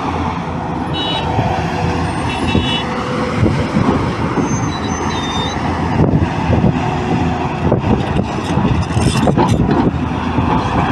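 Excavator's diesel engine running steadily under load, a dense rumbling drone. There are a few short high-pitched chirps in the first three seconds and thin high tones a little later.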